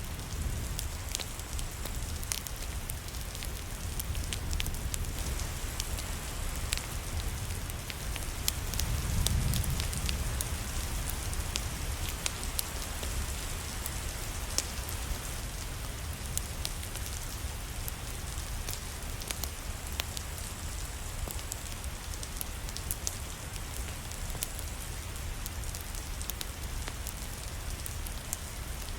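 Steady rain mixed with a crackling fire, scattered sharp clicks and pops over an even hiss and a low rumble; the rumble swells briefly about nine seconds in.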